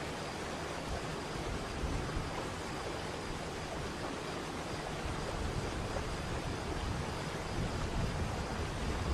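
Waterfall rushing: a steady, even wash of falling water, with a deeper low rumble coming up from about a second in.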